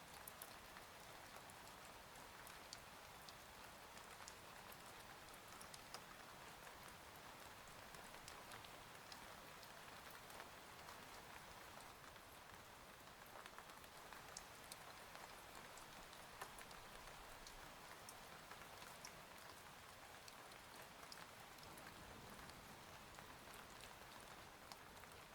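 Faint, steady rain: an even hiss with scattered sharp ticks of single drops.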